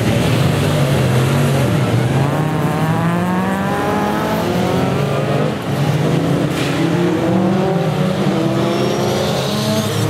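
Several race car engines running together, their notes rising and falling as they rev.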